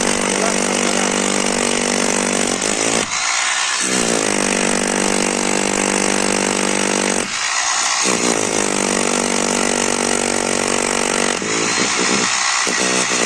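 Power tool motor running loudly in spells of three to four seconds, dipping briefly between each spell.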